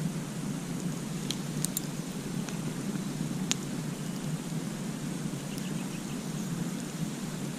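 Campfire crackling: a few scattered sharp pops from the burning wood, the loudest about three and a half seconds in, over a steady low rumble.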